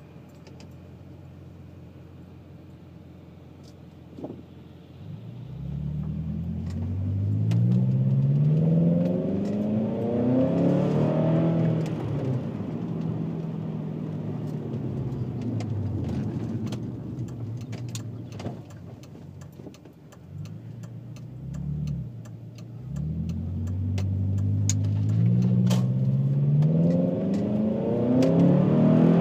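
VW Passat W8's 4.0-litre W8 engine through a custom 2¼-inch stainless exhaust with twin rear mufflers, running quietly at first and then, about five seconds in, pulling hard through the gears: the revs climb, drop back at each change, and climb again, with a last strong pull near the end.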